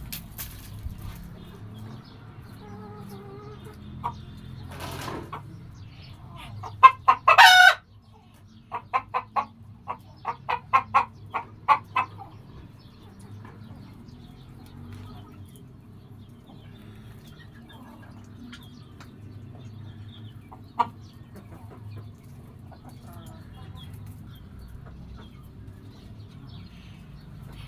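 Chickens clucking, with one loud drawn-out call about seven seconds in, then a quick run of about a dozen short, loud clucks, and fainter scattered clucks after that.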